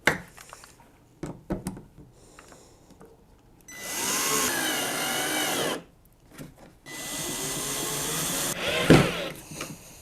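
Power drill running in two bursts of about two seconds each, its pitch wavering under load. Light handling knocks come before the runs and a sharp knock comes just after the second.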